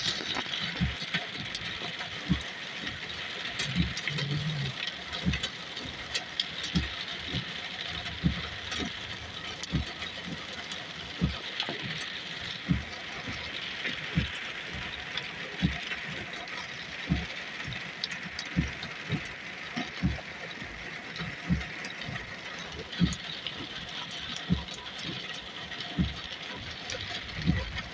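Heavy rain falling with a steady hiss, cut through by irregular sharp taps or thuds roughly once a second.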